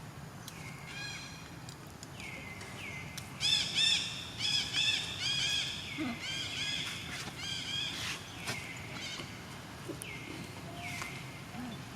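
Macaques giving high-pitched squealing calls. Scattered calls glide down in pitch, and a quick run of arched squeals comes through the middle, the loudest part.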